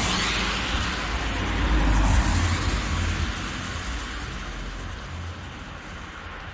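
Road vehicle noise: a car's rumble and tyre-and-road noise swelling about two seconds in, then easing off.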